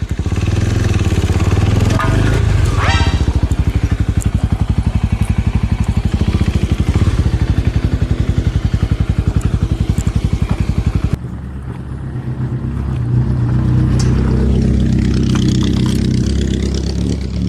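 Small Suzuki motorcycle's engine running as the bike rides along, heard from on the bike. The sound changes abruptly about eleven seconds in, then the engine builds back up.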